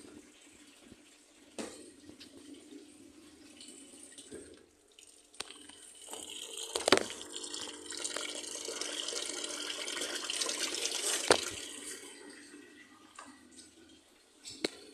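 Water running for about six seconds, with a sharp knock soon after it starts and another just before it stops.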